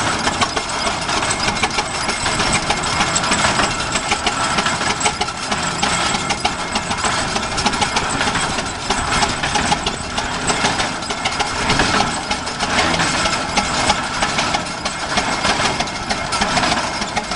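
1916 Avery 12-25 tractor's two-cylinder opposed engine running steadily with a quick, even firing beat.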